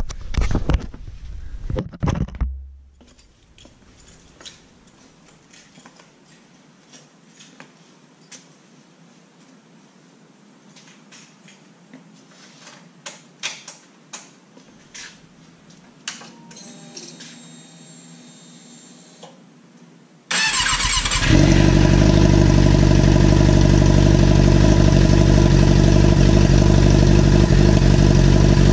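Motorcycle engine with its slip-on muffler removed, exhaust open straight out of the header pipe, starting about twenty seconds in and then idling loud and steady. Before that come a few knocks and a long quiet stretch of small clicks.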